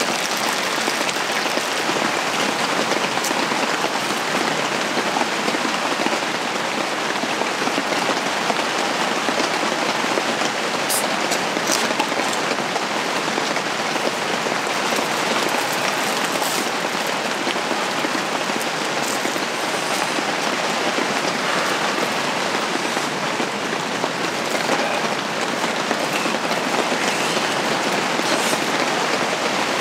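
Steady rain falling on a camping shelter's fabric roof, an even hiss that does not let up, with a few sharp ticks over it near the middle.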